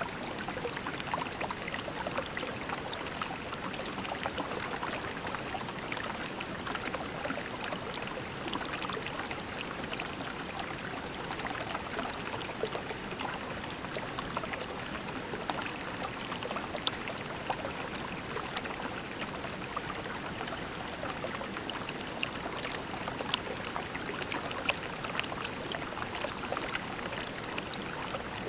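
Small creek babbling and trickling over pebbles, a steady flow with small splashes and droplet ticks throughout.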